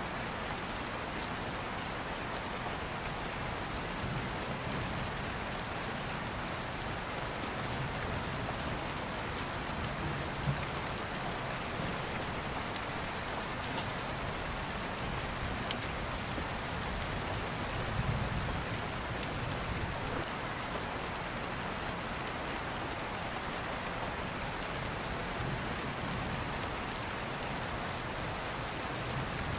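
Steady rain falling, with a few sharp crackles from an open fire and a low rumble of distant thunder a little past halfway.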